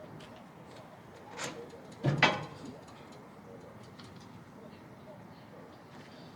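Two knocks as canopy parts are handled: a light click just over a second in, then a louder hollow knock about two seconds in, with faint ticks after.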